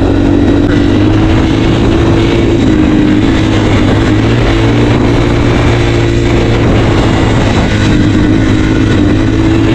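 Dirt bike engine running under way at a fairly steady speed, its pitch wavering only slightly.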